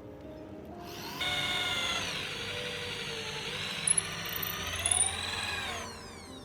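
Small electric power tool motor starts about a second in and runs for nearly five seconds. Its pitch dips and rises as it is loaded, with two brief sharp squeals near the end, before it winds down.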